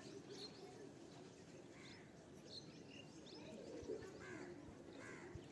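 Faint, scattered bird chirps over a quiet background.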